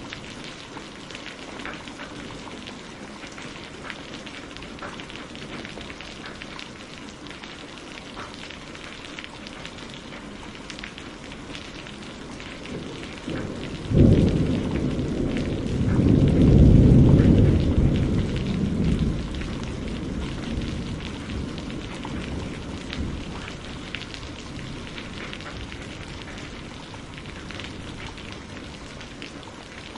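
Steady rain pattering on a greenhouse roof. About halfway through, a clap of thunder cracks suddenly and rolls into a low rumble that swells for a few seconds before fading back under the rain.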